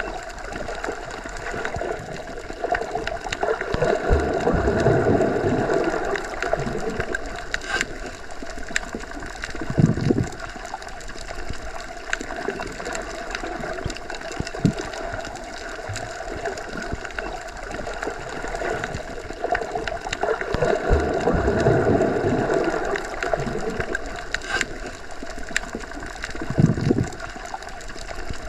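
Underwater ambience as heard with the ears submerged: a steady muffled wash of water that swells twice, with a short low thud about ten seconds in and another near the end, and scattered faint clicks.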